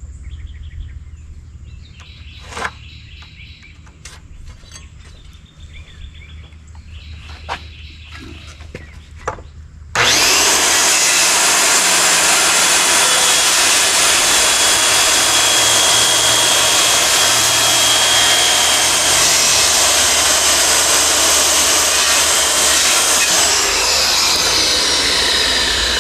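A few knocks and clicks, then about ten seconds in a circular saw starts suddenly and makes a long, steady, loud cut through wood. Near the end it is released and the blade winds down with a falling whine. It is trimming a blade's width off a door that fits too tight.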